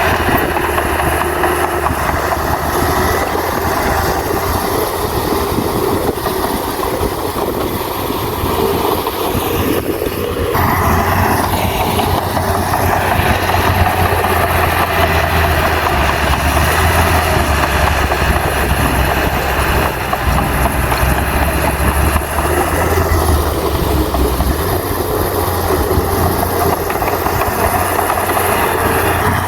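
Heavy earthmoving machinery's diesel engine running steadily, with a deep hum. The sound shifts abruptly about ten seconds in and the low hum grows stronger.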